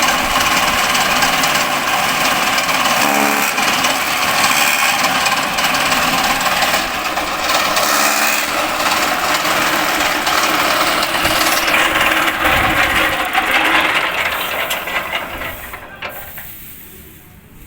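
Elephant-grass chopper machine running and cutting grass, a loud steady mechanical clatter. It dies away over the last few seconds.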